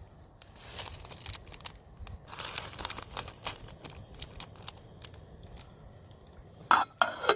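Hand saw rasping through firewood in uneven strokes, with small cracks and knocks from the wood.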